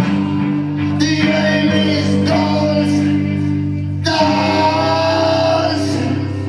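Live band music: sustained guitar chords struck every second or so, with a voice singing over them.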